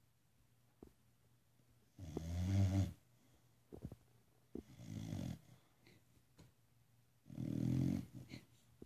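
Dog snoring: three rumbling snores about two and a half seconds apart, the first and last the loudest, with a few small clicks between them.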